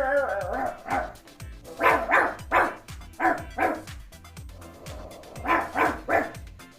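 A boy imitating a dog with his mouth: short barks coming in several quick bunches, about nine in all. Background music plays underneath.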